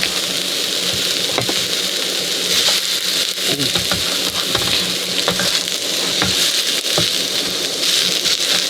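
Food sizzling on the hot top of a wood-burning stove: a steady hiss with scattered small crackles and ticks.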